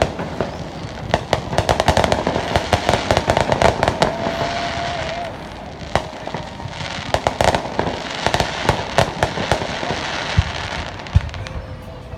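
Aerial fireworks going off in a dense barrage of sharp cracks, bangs and crackling, easing a little about halfway through, with two deeper booms near the end.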